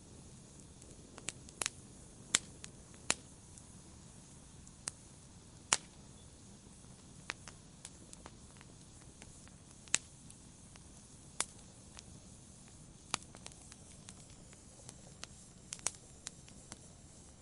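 Wood fire in a fireplace crackling, with sharp pops at irregular intervals over a soft, steady hiss.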